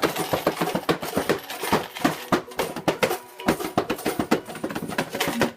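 Rapid, irregular tapping and clinking: improvised percussion played on empty bottles and other everyday objects.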